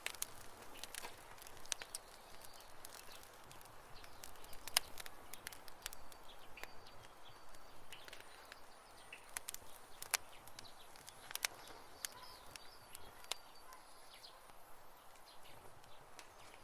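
Wood campfire crackling, with irregular sharp pops and snaps over a soft hiss, the loudest pops about five and ten seconds in. A few faint high chirps sound in the background.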